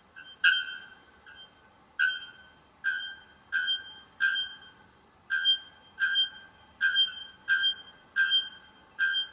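White bellbird calling: a series of about a dozen loud, bell-like notes, one a little under every second, each struck sharply on the same pitch and fading quickly.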